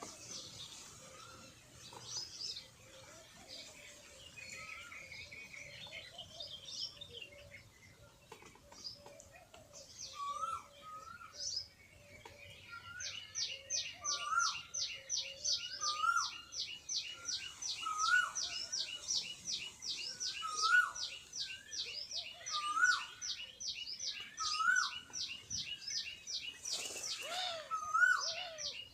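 Birds calling: scattered high chirps at first, then from about halfway a fast, even run of high chirps, about four a second, over a lower note repeated about once a second.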